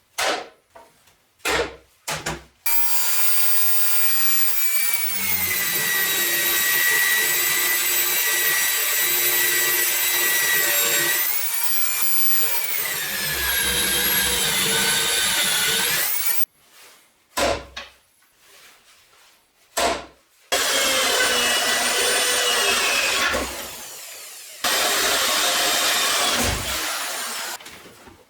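A 9-inch (230 mm) angle grinder with a metal cutting disc, running in a bench stand: a steady high motor whine in two long runs, its pitch sagging as the disc is loaded in a cut. There are a few short bursts before and between the runs.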